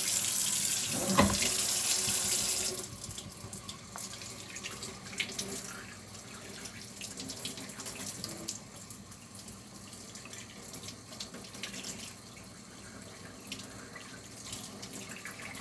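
Water running from a tap, then turned off about three seconds in; after that only faint small clicks.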